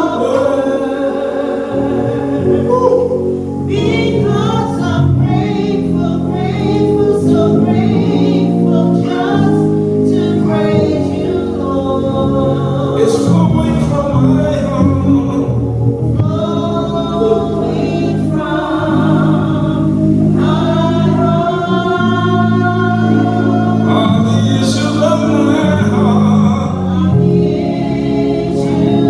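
Gospel choir singing with keyboard accompaniment, sustained held notes over steady chords.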